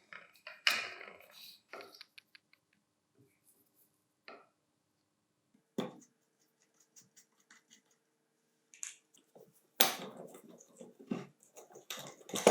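Scattered clicks, knocks and short scrapes of angle grinder parts and hand tools being handled during the restoration work, busiest near the end, over a faint steady hum.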